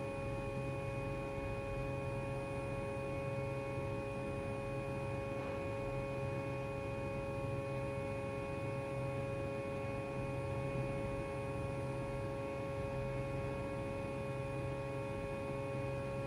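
Laser welding setup running under robot control: a steady electrical hum of several constant tones, with a lower hum that cuts in and out every second or two.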